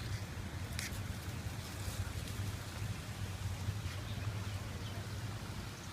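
Steady low rumble with a faint hiss over it, and a sharp click about a second in.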